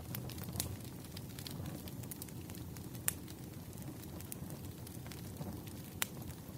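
Wood fire burning: a steady low rumble of flames with scattered sharp crackles and pops, the loudest about three seconds in and near the end.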